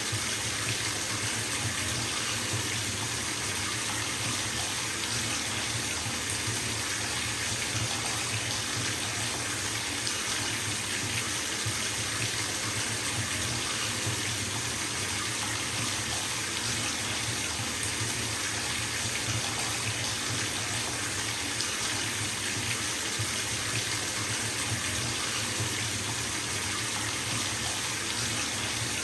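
Water running steadily from a tap into a filling bathtub, an even rushing splash.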